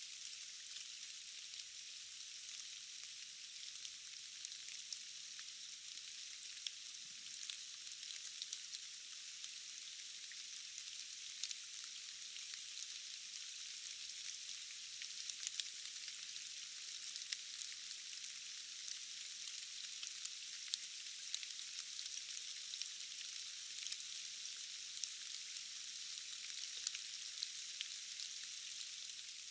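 Steady rain falling in a forest: an even high hiss with many small scattered drop ticks, without pause.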